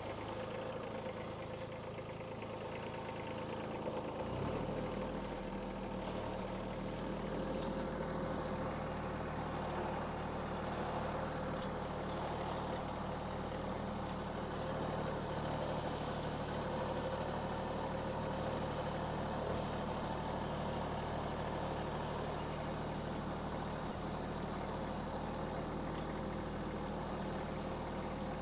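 Vehicle engine running steadily at low revs. About four seconds in, a deeper engine note joins and the sound gets slightly louder.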